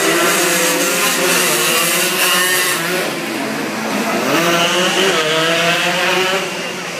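Racing motorcycle engines revving, several at once, their pitch climbing and dropping as the bikes accelerate and pass.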